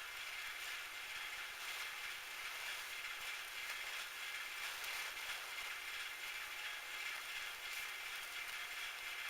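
Metal lathe running steadily, an even mechanical whir with faint light ticking.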